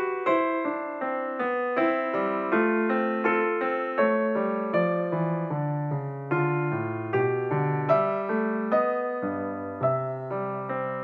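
Background piano music: a gentle, steady stream of notes, about two or three a second, each struck and then fading.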